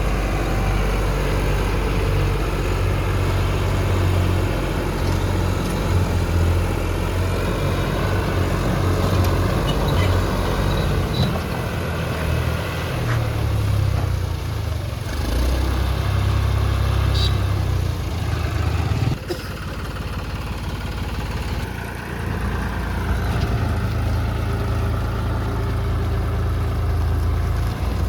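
John Deere harvester's diesel engine running steadily, its low drone swelling and easing, as the machine struggles to get through a pond.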